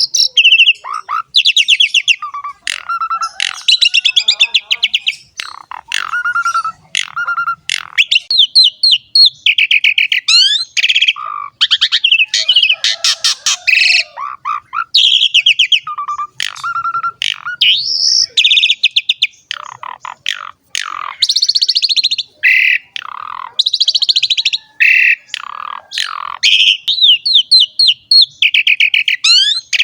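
Asian pied starling (jalak suren) singing energetically, a long run of varied phrases: rapid chirps, harsh rattling notes and whistled glides, broken by brief pauses.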